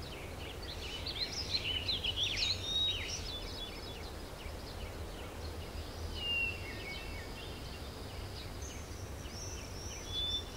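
Songbirds chirping and warbling, a busy run of calls over the first few seconds and scattered calls after, over a steady low rumble of outdoor background noise.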